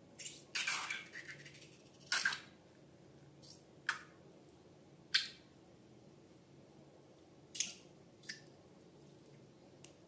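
Slime being handled: about seven short, wet squishes, the loudest and longest cluster in the first two seconds, then single squishes spaced out with quiet between.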